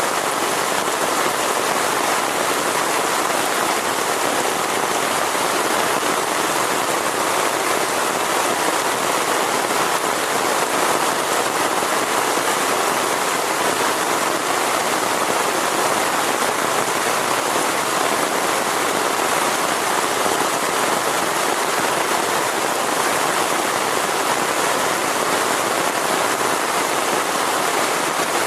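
Heavy rain falling steadily, an unbroken hiss with no change in strength.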